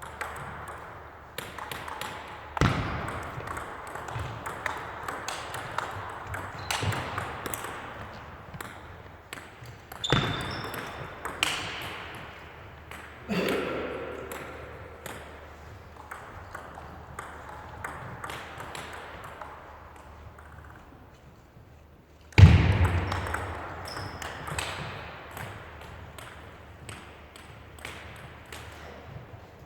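Table tennis rallies: the celluloid ball clicking rapidly off bats and table, over background voices. A few much louder knocks stand out, the loudest about two-thirds of the way through.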